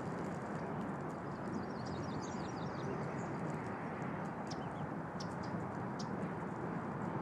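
Steady rushing background noise with high bird chirps over it: a quick run of chirps about two seconds in, then a few short, sharp peeps later.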